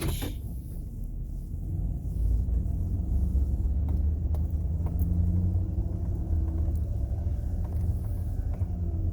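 Cargo van's engine and drivetrain giving a low, steady rumble as the van moves off; it grows louder about two seconds in.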